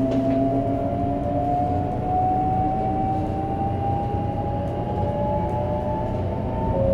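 Shinkansen 500 series train's Toshiba GTO-VVVF inverter and traction motors whining as the train accelerates: a tone rising steadily in pitch over a low running rumble. Near the end the tone drops suddenly and begins rising again, the step of the inverter changing its switching mode.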